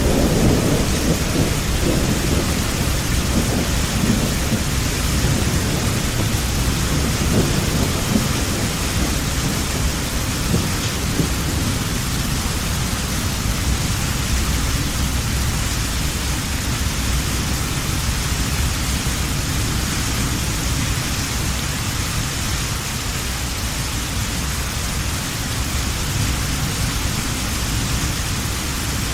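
Steady heavy rain with a low rumble of thunder that is strongest at the start and dies away over the first ten seconds or so.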